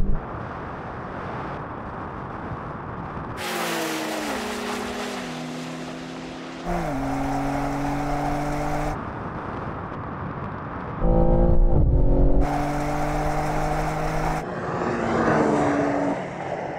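High-performance car engine running hard under acceleration in a drag race, its note stepping in pitch several times. The sound changes abruptly in a few places, as at cuts between shots.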